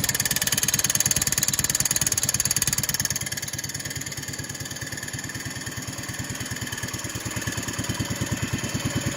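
Engine of a 1970 140 H3 garden tractor running at a steady idle, firing in rapid even pulses. It sags a little in loudness partway through and picks up again near the end.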